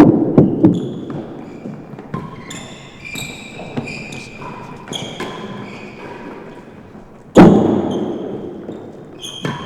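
Real tennis rally: sharp knocks of the hard ball off rackets and the court walls, ringing in the hall, with the loudest strike about three-quarters of the way through. Between the strikes, shoes squeak briefly on the court floor.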